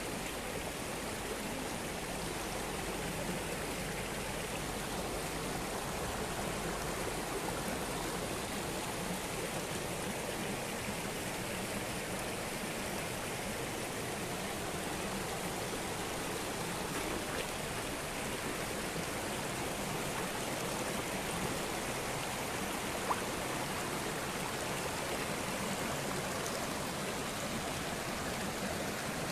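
Muddy floodwater rushing steadily down a road, a continuous even water noise.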